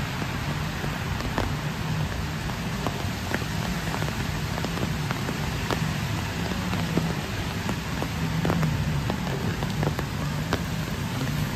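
Steady rain falling on wet pavement and trees, with scattered sharp ticks throughout.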